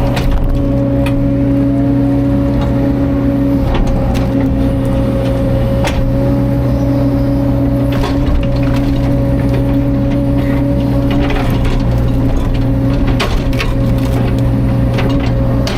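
Caterpillar 305.5 mini excavator's diesel engine running steadily under work, with scattered sharp cracks and knocks throughout.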